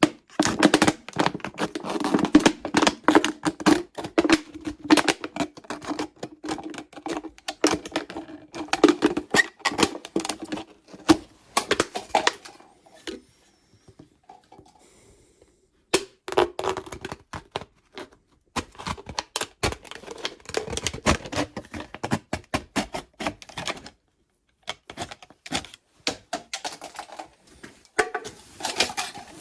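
Rapid clicking and scraping of hand work on an old axe, with a ringing tone under it for the first dozen seconds. The work breaks off for about three seconds midway and briefly again later.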